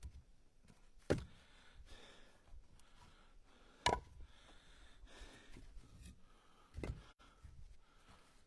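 Split ash firewood pieces being set down on a stack in a truck bed: three sharp wooden knocks, about three seconds apart.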